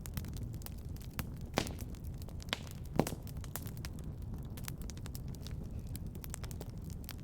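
Wood fire crackling in a fireplace, with a steady low rumble of the flames and scattered sharp pops, the loudest a little before halfway.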